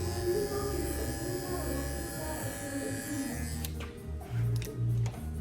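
Cordless electric hair clipper buzzing steadily, switched off about three and a half seconds in, over background music.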